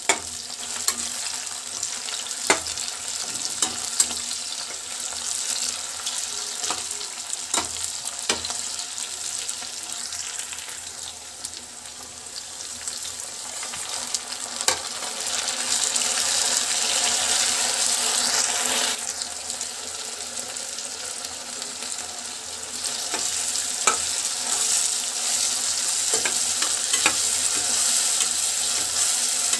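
Onions, green chillies and tomatoes sizzling in hot oil in a non-stick kadai, stirred with a steel spatula that clicks and scrapes against the pan now and then. The sizzle dips briefly, then grows louder about halfway through, once the tomatoes are in the pan.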